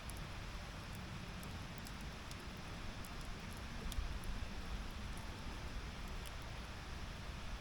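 Wood campfire in a fire stand crackling, with scattered sharp pops, one a little louder about four seconds in, over a steady low rumble.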